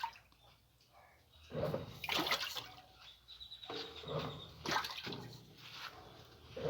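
Water rushing and sloshing inside a washing machine tub, coming in uneven surges every couple of seconds.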